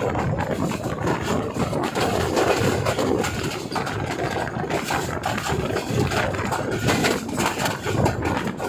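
A passenger train passing close by: a steady, loud rolling rumble with a scatter of clicks and rattles from the wheels running over the track.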